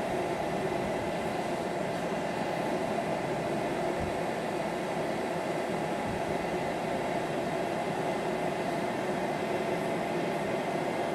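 Blower forcing air into a backyard aluminium-melting furnace, running at full heat with a steady rushing noise and a faint hum.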